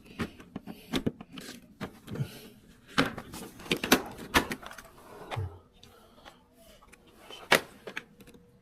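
Clicks and knocks of plastic parts of a wall-mounted air conditioner being unclipped and handled during disassembly, irregular, with a sharp knock about four seconds in and another near the end.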